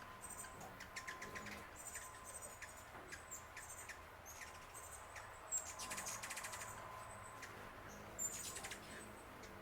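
Small birds chirping with short high calls and several quick ticking trills, the sharpest about halfway through and again near the end, over a faint steady high-pitched tone.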